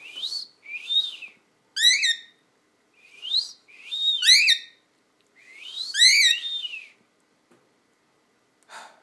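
Cockatiel giving a run of loud, shrill calls, about six in seven seconds, some warbling and some sliding up and down in pitch.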